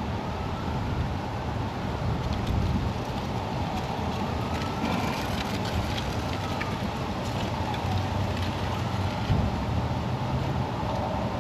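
Steady background rumble and hiss, with a few faint light taps.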